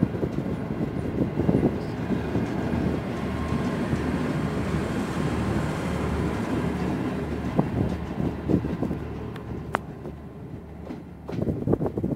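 Passenger train coaches rolling slowly past, their wheels knocking rhythmically over the rail joints. The sound fades as the last coach goes by and draws away.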